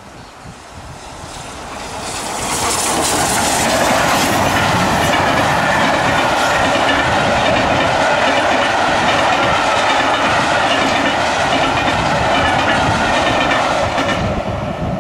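A train passing close by, its wheels running on the rails: the noise builds over the first few seconds, holds steady, and falls away near the end.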